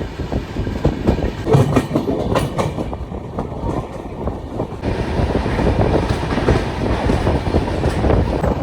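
Express train running at speed, its wheels clattering over rail joints with a dense run of clacks in the first few seconds over a steady rumble.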